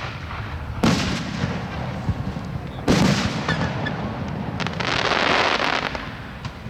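Fireworks shells bursting: two loud booms about two seconds apart, each followed by a rumbling echo, then a hissing burst lasting about a second and a half near the end.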